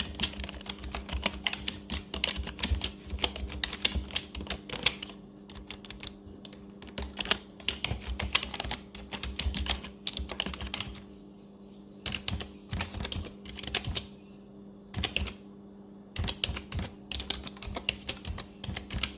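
Typing on a computer keyboard: runs of rapid keystroke clicks, thinning to a few scattered keystrokes in short pauses, over a steady low hum.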